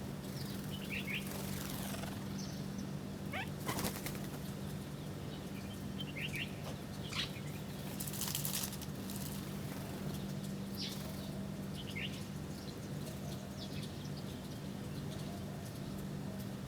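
Small birds chirping in short, scattered calls while feeding, with several brief bursts of wings flapping, over a steady low hum.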